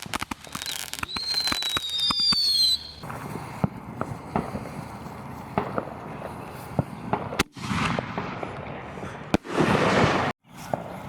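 Consumer fireworks going off: whistles falling in pitch in the first few seconds, then scattered sharp bangs and pops with two bursts of crackling near the end.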